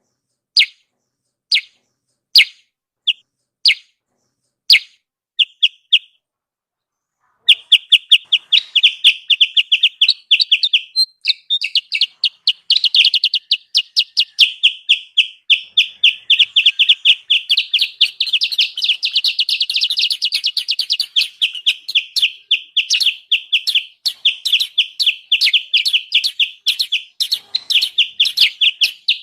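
Kutilang sutra, a bulbul, calling. First come single sharp notes about a second apart, then after a short pause a fast, continuous noisy chatter of many calls a second, the agitated 'ribut' call used as a trapping lure.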